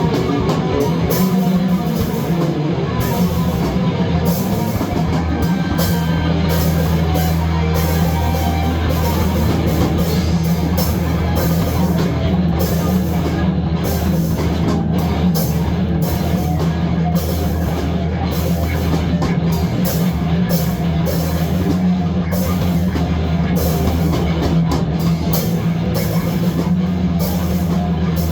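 Loud rock music, heavy-metal style, with a drum kit and guitar playing steadily and dense, frequent cymbal and drum hits.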